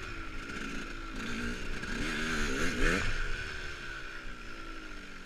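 KTM dirt bike being ridden, its pitch rising and falling as the throttle is opened and closed, with the strongest surge about three seconds in.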